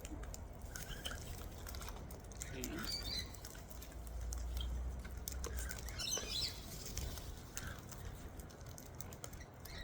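Cockatoos feeding at close range: a scatter of small clicks and crunches from their beaks working food, with brief soft chirps about three and six seconds in and a low rumble around the middle.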